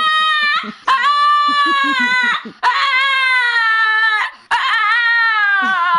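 A dog whining in four long, high-pitched cries in a row, each holding its pitch and falling slightly at the end.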